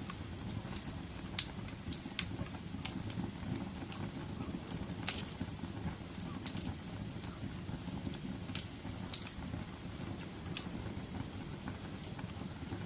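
Wood fire crackling: sharp, irregular pops about once a second over a steady low rumble of the burning fire.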